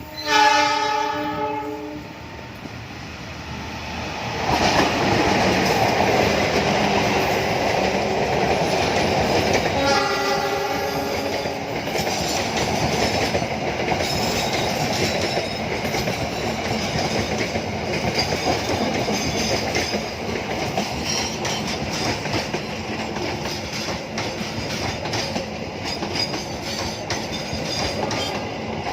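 A train sounds its horn in a chord for about two seconds, then passes close by with a steady rumble and the clatter of wheels over the rail joints. A second, shorter horn blast comes about ten seconds in.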